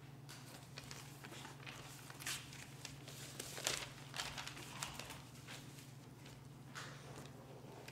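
Faint scattered rustling and shuffling over a steady low electrical hum, with a few louder rustles in the middle.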